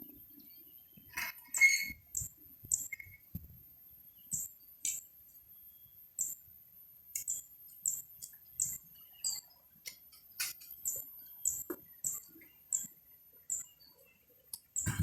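Small bird chirping: short, high-pitched chirps repeated irregularly, about one or two a second, with faint clicks and knocks underneath.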